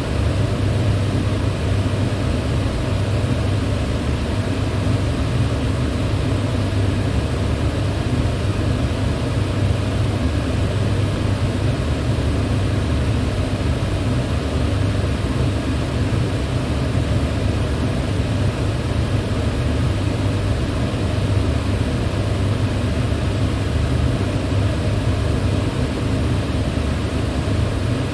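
Electric fan running steadily: an even rush of air over a low hum, unchanging throughout.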